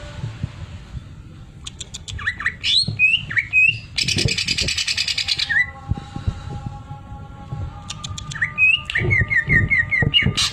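Green leafbird (cucak ijo) singing in sharp chirps and slurred whistled notes. Its sewing-machine imitation is a fast buzzing rattle lasting about a second and a half in the middle. Near the end comes a quick run of about six repeated falling notes.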